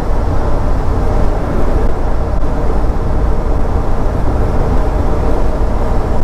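Steady low road and engine noise of a pickup truck driving, heard from inside the cab.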